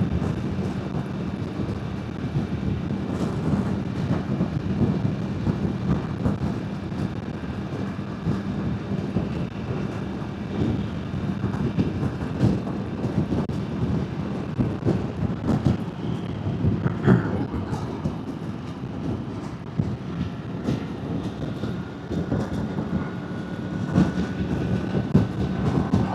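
Motorbike riding at speed, recorded through a DJI Mic Mini on its high noise-cancellation setting: steady wind rush and rumble with a low steady drone underneath, and a faint thin tone coming in about halfway through.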